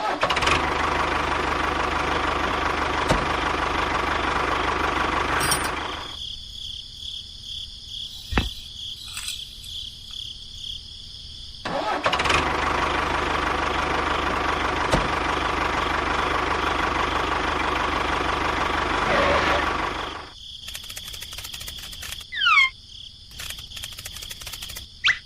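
A small motor runs twice, each time starting abruptly, holding a steady hum for several seconds and then trailing off as it winds down.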